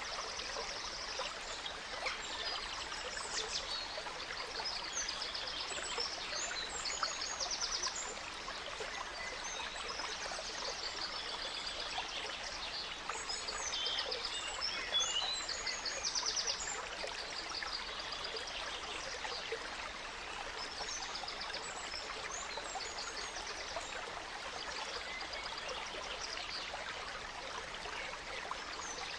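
A small stream running and trickling steadily, with several songbirds singing over it in quick trills and chirps, busiest in the first half and sparser later.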